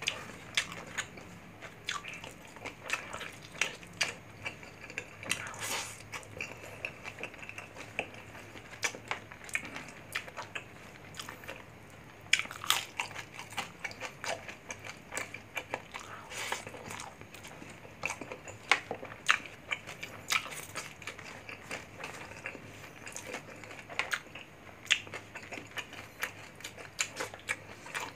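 Close-miked chewing of crispy fried pork belly (bagnet) and rice, with frequent irregular sharp crunches.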